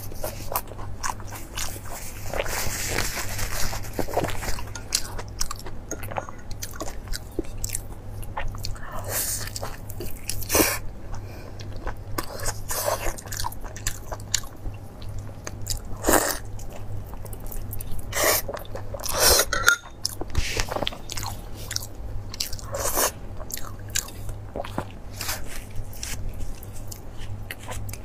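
Close-miked biting and chewing of crusty deep-fried meat-filled buns: irregular crisp crunches and crackles of the crust, with mouth sounds between bites. A steady low hum runs underneath.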